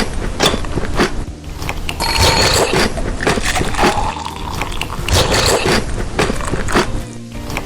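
Chocolate being bitten and chewed close to the microphone: a dense run of sharp, crackly bite and chewing noises.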